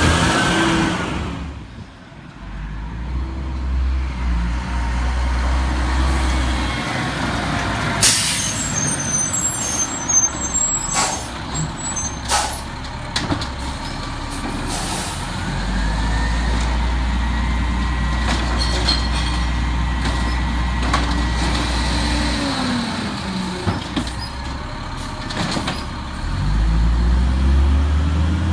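Peterbilt 320 garbage truck's diesel engine running, swelling and easing off several times, with air-brake hisses and a few sharp clanks in the middle.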